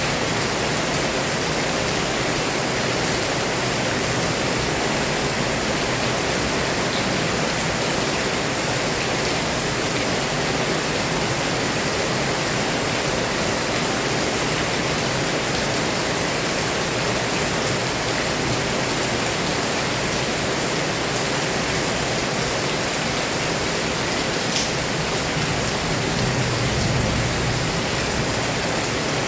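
Heavy rain pouring down steadily, a dense even hiss with no letup, with a brief low swell near the end.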